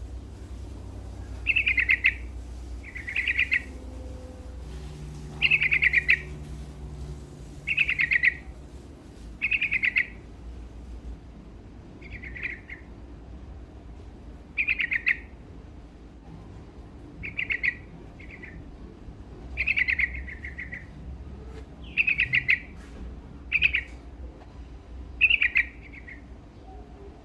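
Yellow-vented bulbul (trucukan) singing steadily: short, loud bubbling phrases repeated every one to two seconds.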